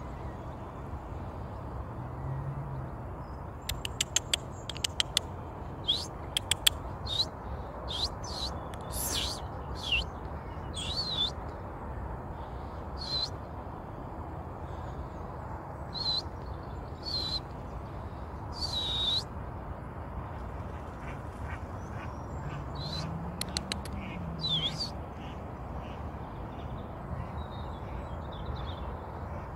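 A bird giving short, high calls again and again, with a few quick runs of clicks, over a steady low background rumble.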